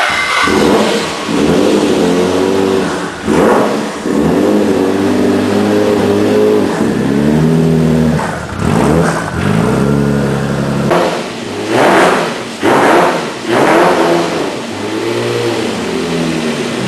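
Twin-turbo 300ZX race engine breathing through a new twin 3-inch exhaust, revved up and dropping back again and again, with a few sharp louder bursts in the second half.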